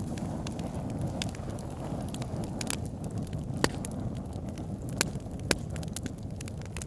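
A cooking fire crackling: scattered sharp pops over a steady low rumble, with a few louder pops in the second half.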